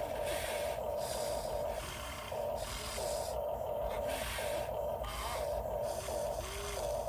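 Radio-controlled 1/14 scale truck running: a steady motor-and-gearbox whine that stops and starts several times, with a hiss over it.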